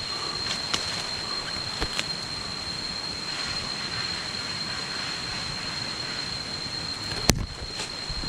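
Steady rushing of a jungle stream or waterfall, with a steady high whine running over it and a sharp knock about seven seconds in.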